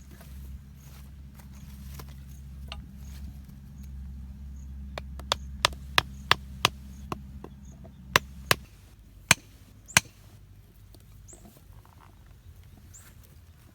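A run of about ten sharp knocks or taps over a few seconds, over a low steady hum that cuts off partway through.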